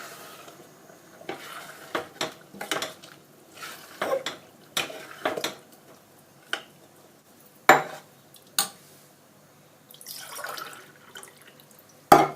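A spoon stirring chicken curry in a cooking pan after water has been added, scraping and clicking against the pan. A few sharper knocks come about two-thirds of the way through and again just before the end.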